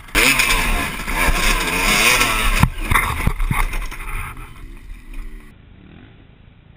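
Dirt bike engine revving hard, its pitch rising and falling, then cutting off suddenly about two and a half seconds in. A few short knocks follow, with a fainter engine running.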